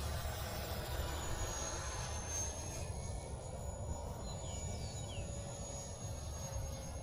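Electric ducted fan RC jet in flight, its fan giving a high whine that drops slightly in pitch over the first couple of seconds and then holds steady over a low rumble. Two short falling chirps come about four and five seconds in.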